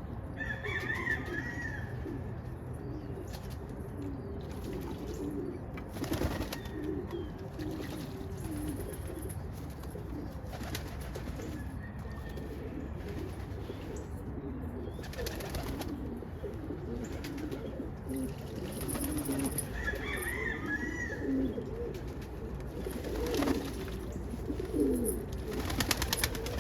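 Pigeons cooing continuously in a low, wavering murmur, with a couple of short higher chirps and a few sharp knocks.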